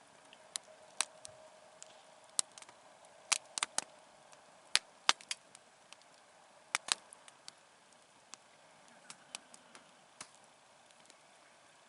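Wood campfire crackling: irregular sharp pops and snaps, some in quick clusters, over a faint steady hiss.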